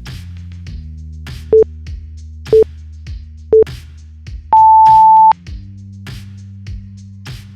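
Interval-timer countdown: three short beeps about a second apart, then one longer, higher beep marking the switch to the next interval. Under it runs background electronic music with a steady beat.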